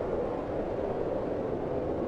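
Steady wind, a constant low-pitched rushing hiss with no gusts or breaks.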